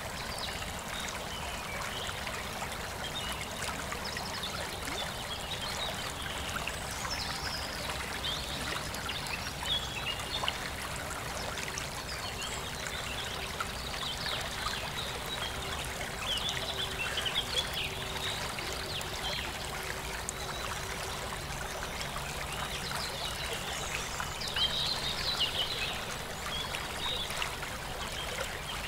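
Small birds chirping in scattered short high calls over a steady rushing background noise. The chirps come thickest about a quarter of the way in, around the middle, and again near the end.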